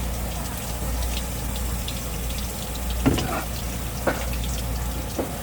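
Tap water running steadily at a fish-cleaning sink over a low hum, with three short knocks in the second half.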